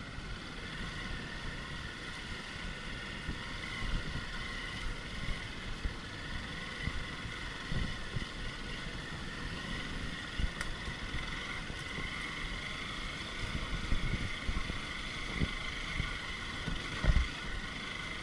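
Off-road motorcycle engine running on a steep dirt trail, carrying a rider and a pillion, with irregular low thumps and wind buffeting on the microphone.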